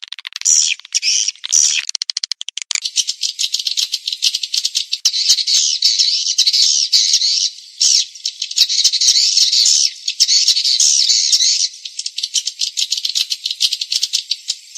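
Edible-nest swiftlet calls played as a lure track for swiftlet farming: loud, high chirps and fast clicking twitters. A few separate chirps and a quick run of clicks come first, then from about three seconds in a dense, unbroken twittering chorus.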